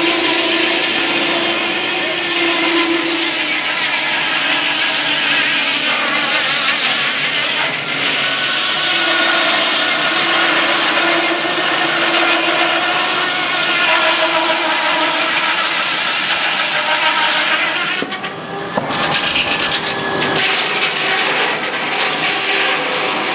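Sawmill saw cutting through a log: a loud, steady cutting noise with shifting tones. It dips briefly about eighteen seconds in, then carries on more unevenly.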